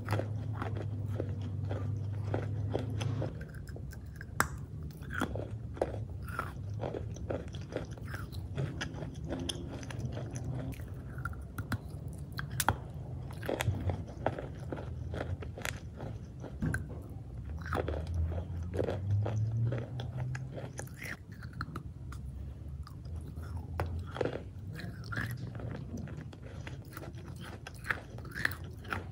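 Chalk being chewed close to the microphone: a dense, irregular run of crunches and crackles as the pieces are bitten and ground between the teeth. A low steady hum sits underneath, strongest near the start and again about two-thirds of the way in.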